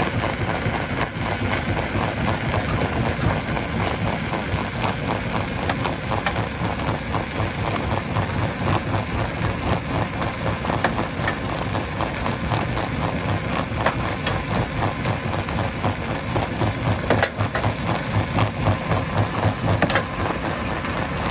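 Engine of heavy machinery running steadily, with constant clatter and a few sharper knocks near the end.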